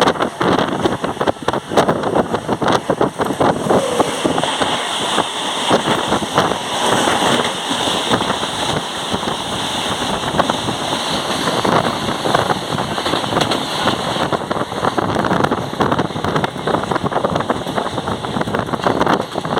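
Mumbai suburban electric local train running: a steady din of carriage rattle and wheels clattering on the rails. A higher hiss rises over it for several seconds in the middle.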